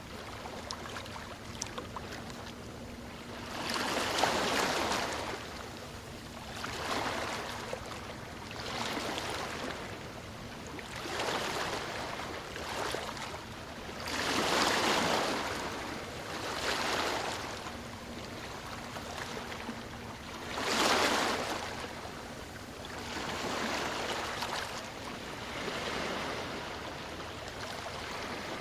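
Ocean waves breaking and washing up the shore in repeated swells a few seconds apart, with bigger breakers about 4, 15 and 21 seconds in.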